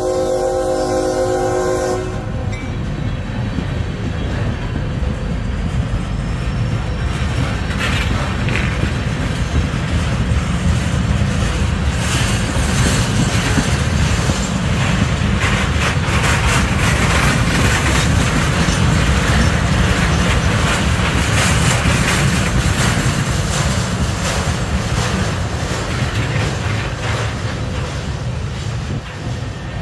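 A train horn sounds, cutting off about two seconds in. After that, a slow CSX work train of flatcars loaded with continuous welded rail rolls past, its steel wheels rumbling and clacking on the track along with a metallic rattle.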